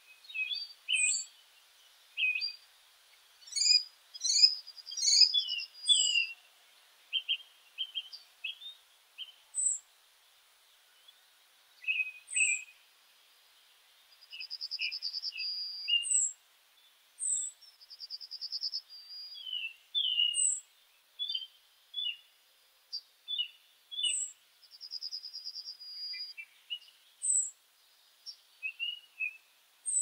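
Several meadow birds calling and singing: thin high notes that drop in pitch, repeating every second or two, quick chirps lower down, and now and then a buzzy trill that lasts a second or two.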